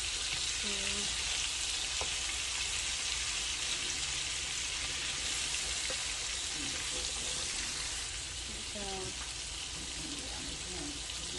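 Food frying in a hot pan with a steady sizzle.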